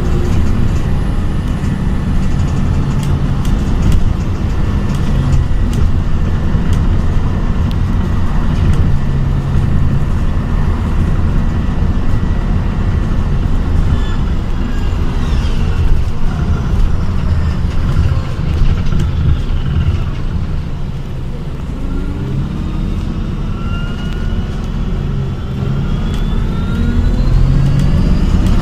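ADL Enviro 400 hybrid double-decker bus on the move, heard from inside: a steady low running and road rumble, with the whine of its BAE Systems HybriDrive electric traction motor rising and falling in pitch as the bus speeds up and slows, most plainly in the second half.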